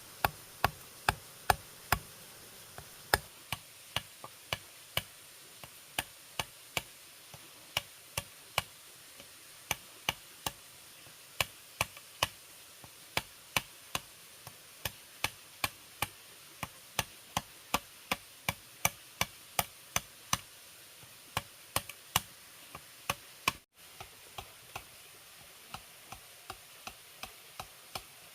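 Repeated sharp knocks of a blade chopping bamboo, about one or two strokes a second at an uneven pace, over a steady hiss.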